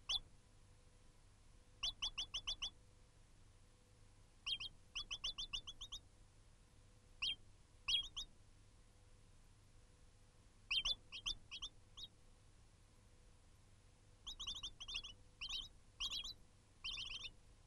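Small birds chirping in quick runs of four to eight short, high notes, coming several times with short gaps between.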